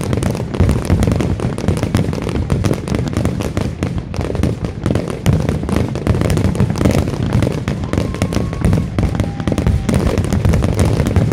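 Fireworks display going off in a rapid, continuous barrage of overlapping bangs and crackles with no pause.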